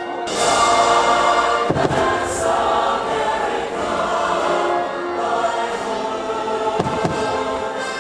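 Fireworks show soundtrack: choral music with a choir singing sustained notes, with two firework bangs, about two seconds in and near seven seconds.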